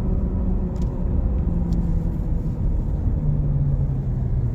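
A vehicle's engine and road rumble while driving, the engine note gradually dropping in pitch as it eases off.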